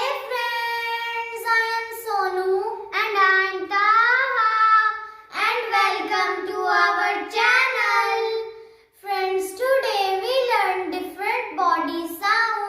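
A child's high voice singing in held, gliding phrases, with short breaks about five and nine seconds in.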